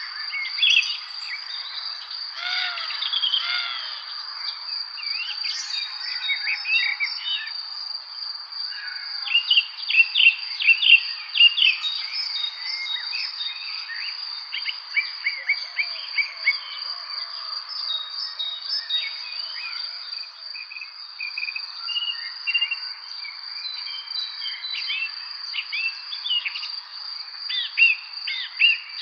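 Several wild birds chirping and singing in a spring evening chorus: many short chirps and quick trills overlap, busiest around a third of the way in. Under them runs a steady, unbroken high-pitched insect trill, like crickets.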